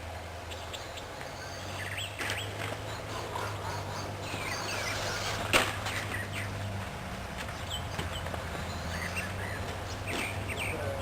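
Birds chirping in short calls over a steady low hum, with one sharp knock a little past halfway.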